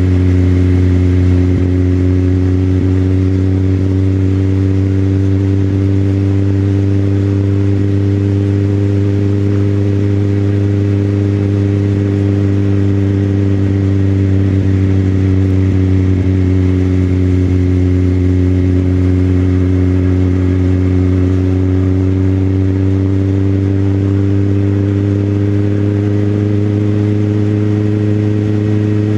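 Motorcycle engine running at a steady cruise, its pitch nearly level, easing down slightly midway and rising a little near the end.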